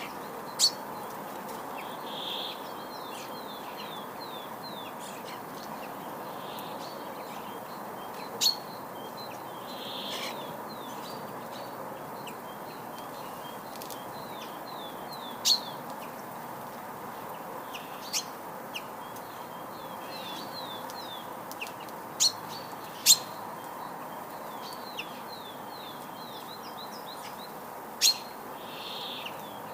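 Songbirds chirping and singing outdoors: runs of short, quick falling chirps, with several sharp, loud single notes now and then, over a steady background hiss.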